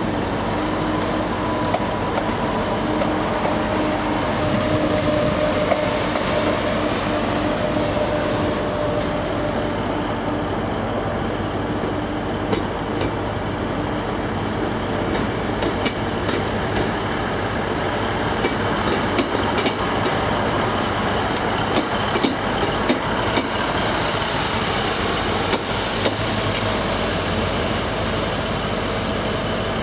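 Diesel multiple units on the move: first a Class 170 Turbostar running past with a steady engine and transmission hum. From about halfway, a Class 150 Sprinter diesel unit rolls through, its wheels clicking over the rail joints.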